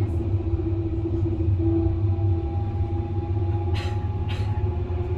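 Stuttgart U2 U-Bahn light-rail train running through a tunnel, heard from the front of the car: a steady low rumble with a steady whine. Two short hisses come near the end.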